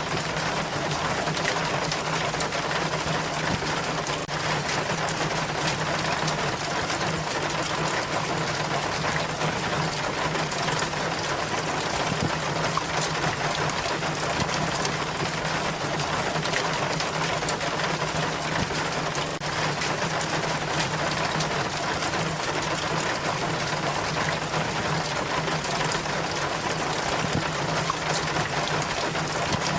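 Rain water running steadily down a rain chain, a constant splashing trickle with a steady low hum beneath it.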